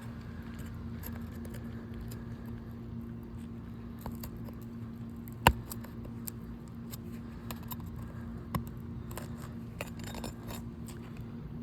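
A small hand tool prying roofing nails out from under an asphalt shingle: scattered clicks and light scrapes, with one sharp metallic click about halfway through, over a steady low hum.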